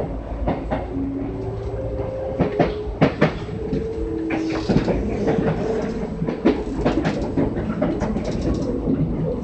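Kintetsu 6413-series electric train running, heard from inside the car: a steady low rumble with irregular clacks of the wheels over rail joints, and brief steady humming tones.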